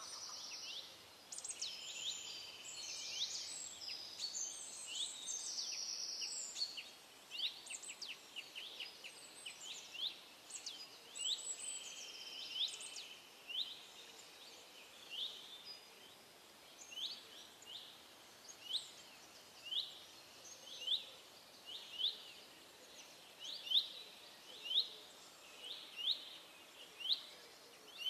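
Songbirds calling and singing, several overlapping chirps and trills at first. Later, one bird repeats a short rising chirp about once a second.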